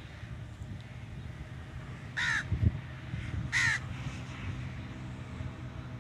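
A crow cawing twice, about a second and a half apart, over a steady low engine hum. A brief low thump comes just after the first caw.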